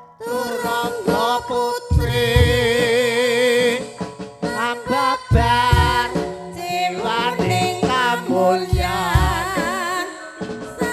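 Javanese gamelan music for an ebeg performance: a solo vocalist holds long, wavering notes with wide vibrato over sustained metallophone tones and repeated low drum strokes.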